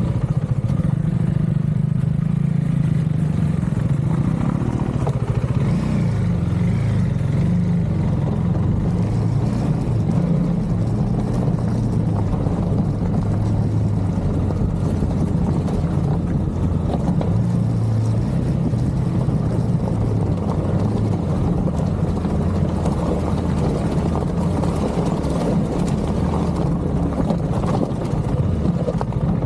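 Motorcycle engine running at low, fairly steady revs, its pitch shifting slightly with small throttle changes.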